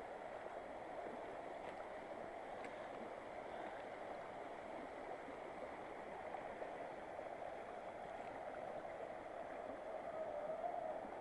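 Small waterfall on a mountain river: a steady rush of falling and splashing water, swelling slightly near the end.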